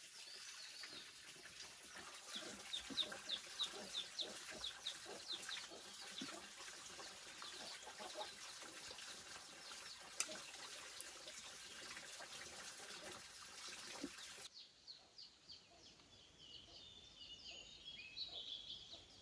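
Faint farmyard ambience of birds chirping, with a quick run of high chirps a few seconds in, over a soft steady hiss. After a change in the background, more chirps and short whistled bird calls follow.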